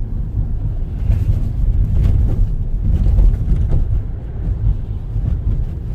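Car driving over a bumpy road: a steady low rumble of tyres and engine, with a few faint knocks from the bumps.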